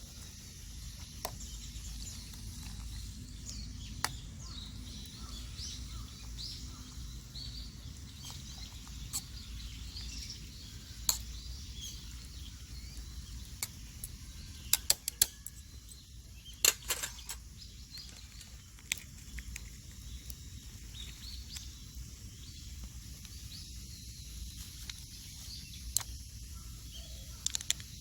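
Wood campfire crackling with scattered sharp pops, a small cluster of them about halfway through, over a low steady outdoor rumble and faint bird chirps.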